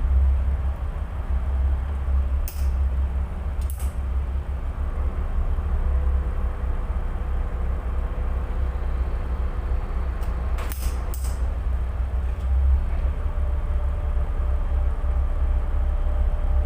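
A tugboat's diesel engines run with a steady low drone. A few brief clicks sound over it, twice in the first four seconds and twice close together near the eleven-second mark.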